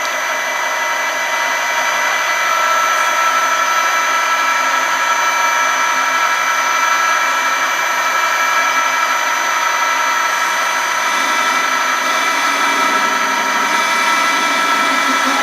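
Machine-shop power tool running steadily with a high whine made of several steady tones; a lower, rougher noise builds up in the last few seconds.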